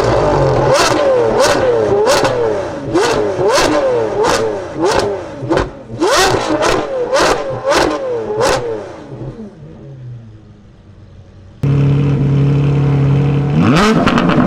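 Lamborghini Revuelto V12 with a Gintani exhaust being blipped over and over, its pitch rising and falling in quick succession with a sharp crack as each rev drops. It dies down, then cuts suddenly to a steady idle and gives one more rev with cracks near the end.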